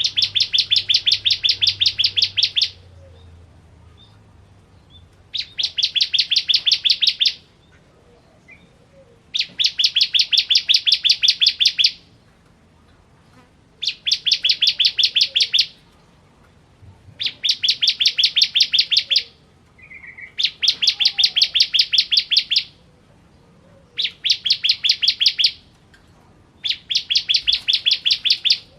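A ciblek kristal (bar-winged prinia) singing its loud chattering song: bouts of rapid, sharp repeated notes, about ten a second and each bout about two seconds long, given eight times with short pauses between.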